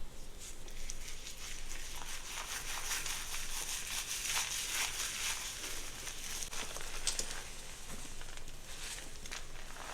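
Hair being worked close to the microphone: a continuous scratchy, crackling rustle that comes in uneven strokes.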